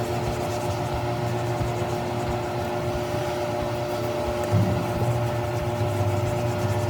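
Steady mechanical hum from a running motor or fan, with a couple of constant tones held throughout.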